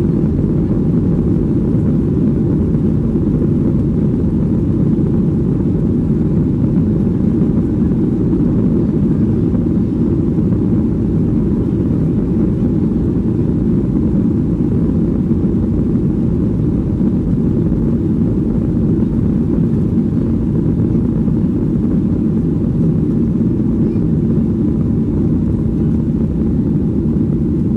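Steady engine and airflow noise heard inside the cabin of a Boeing 737-700 with CFM56-7B turbofans: an even, loud low drone that does not change.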